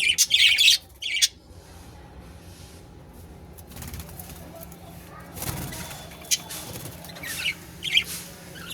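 Budgerigars chirping in short, sharp calls, loudest in the first second and again near the end, with a stretch of wing flapping in the middle.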